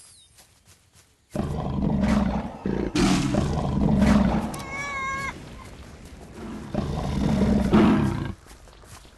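Tiger roaring and growling in long, loud, rough stretches, starting suddenly about a second in and dropping away near the end. A short high wavering call cuts through about five seconds in.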